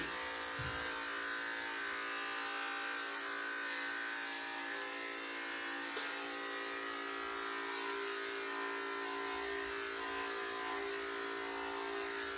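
Electric pet hair clippers buzzing steadily while shaving a long-haired cat's thick coat.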